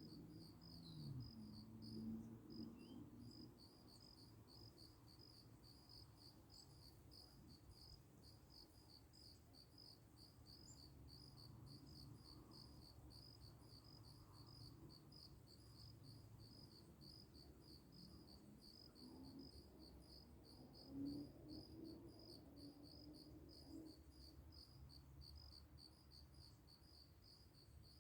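Crickets chirping faintly in a steady, even rhythm of a few high-pitched chirps a second, over a faint low rumble.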